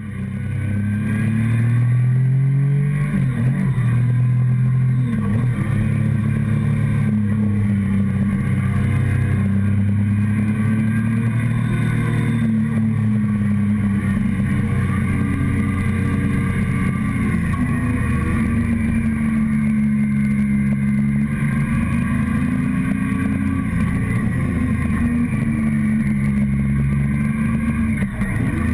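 Motorcycle engine running under way, heard close up from the fuel tank, its pitch rising and falling several times as the rider opens and closes the throttle and changes gear.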